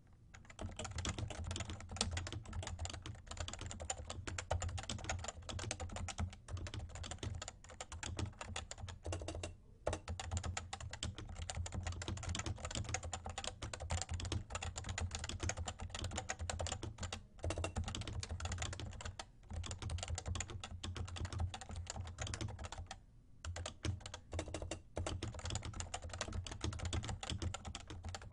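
Continuous fast typing on a Topre-switch keyboard, a Realforce R2 TKL with 30 g switches: a dense stream of soft key strokes, broken by a few short pauses.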